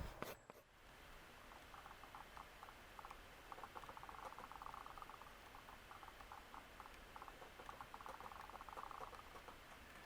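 Faint, rapid light clicking and scratching, coming in dense bursts and thinning in between.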